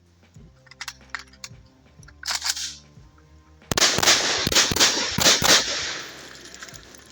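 Rifle fired in a rapid string of about eight shots over two seconds, starting about halfway through, with the reports echoing after the last shot. A brief burst of noise comes a little over a second before the first shot.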